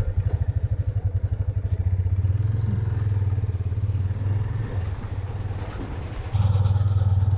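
Motorcycle engine catching and running with a fast, even beat; it grows louder about six seconds in.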